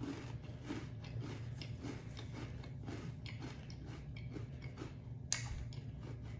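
Close-up chewing of a crunchy Biscoff vanilla cream sandwich cookie, with crunches coming about two to three a second. A single sharp click sounds about five seconds in.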